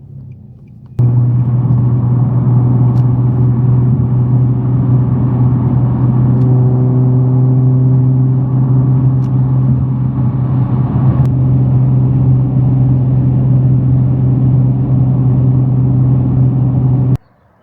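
Touchless car-wash air dryer blowers running with a loud, steady hum over a rushing of air. They start abruptly about a second in and cut off near the end.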